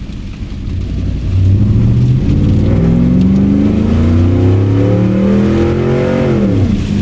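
The Camaro's swapped-in 4.8 L LR4 V8 accelerates hard, its pitch climbing steadily for about four seconds, then dropping quickly near the end as the throttle comes off.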